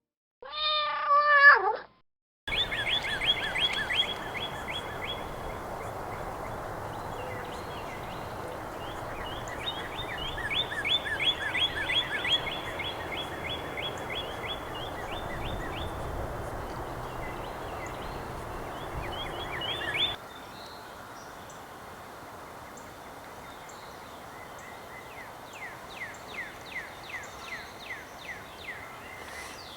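Wild birds calling outdoors: a short, loud, wavering call that falls in pitch, then long runs of rapid, repeated high trilled notes over a steady background hiss, with another run of quick notes near the end.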